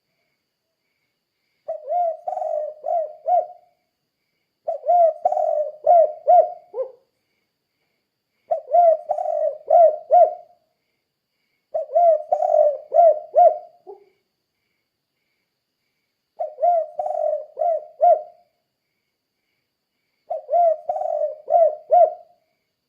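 Spotted dove (tekukur) singing its 'kuk 2' coo: six cooing phrases of about five quick notes each, a few seconds apart.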